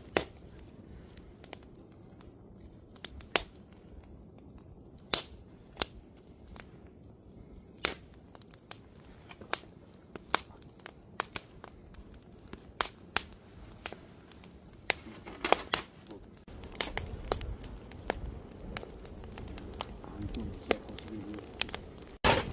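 Wood campfire crackling, with irregular sharp pops and snaps over a faint hiss; a low rumble comes in about three quarters of the way through.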